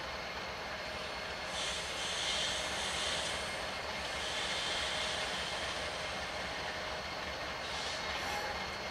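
BNSF diesel freight locomotive approaching with a steady low engine rumble. Wheels on the curving rails add hissing, squealing surges about a second and a half in, again around four to five seconds, and near the end.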